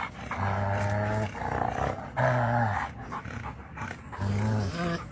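Pet pig grunting: four low, drawn-out grunts at a steady pitch, about one every two seconds, with the last two running close together near the end.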